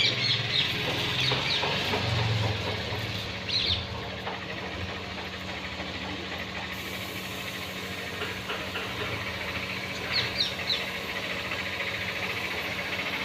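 A flock of parrots feeding, giving short high chirps in little clusters near the start, about three and a half seconds in, and again about ten seconds in, over a steady low hum.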